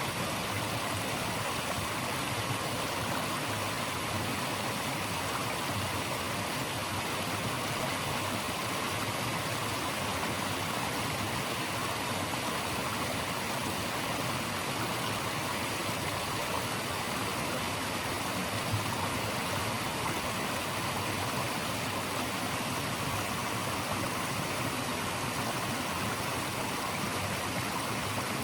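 Steady, even rush of running water, with no breaks or changes.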